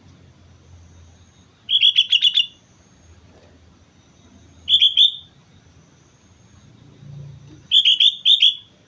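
Sooty-headed bulbul singing in three short phrases of quick, bubbly notes: one about two seconds in, a shorter one at about five seconds, and a longer one near the end.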